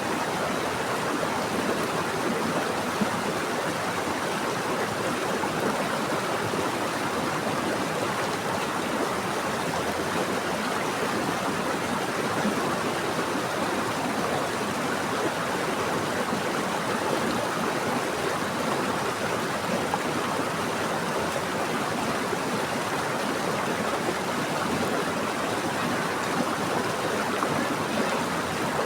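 Running water of a stream flowing steadily, an even, unbroken wash of water sound with no breaks or separate splashes.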